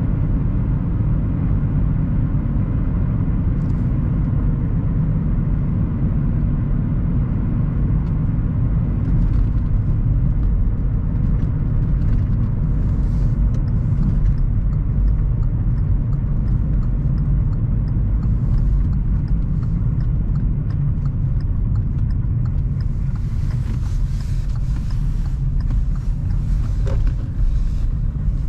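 Car driving along a road: a steady low engine and road rumble, with a higher tyre-like hiss joining for the last few seconds.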